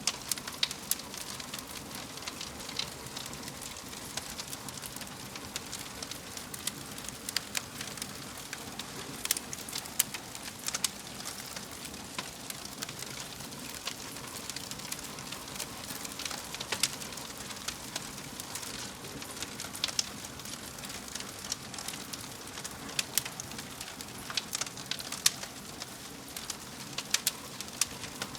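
Wood fire burning in a fireplace: a steady hiss with irregular sharp crackles and pops throughout.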